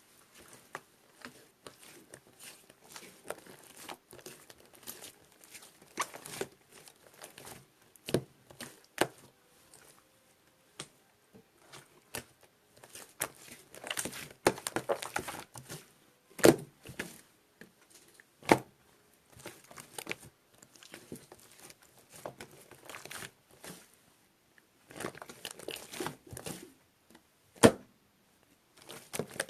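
Slime being worked by hand: irregular crackling and crinkling with scattered sharp clicks and pops. The loudest snaps come a little past halfway and again near the end.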